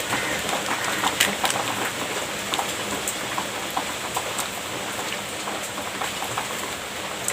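Heavy rain falling steadily, with a few sharp clicks here and there.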